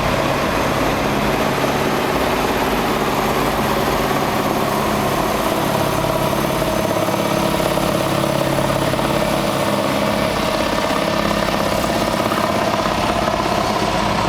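Heavy diesel truck engines running steadily, a constant even drone.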